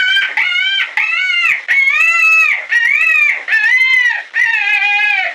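Rabbit squealing: a run of about eight short, high-pitched whining calls, each rising then falling in pitch, lower toward the end.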